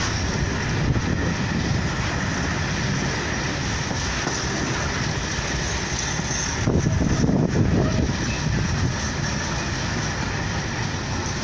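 Freight train of open box wagons rolling past with a steady rumble of wheels on rail. The rumble grows louder for a moment about seven seconds in.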